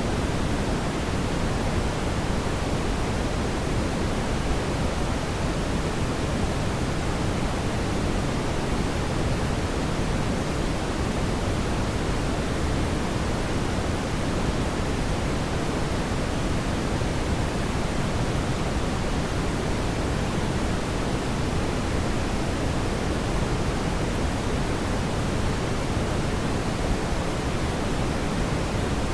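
Fireplace ambience: a steady, even rushing of burning fire with no loud pops standing out.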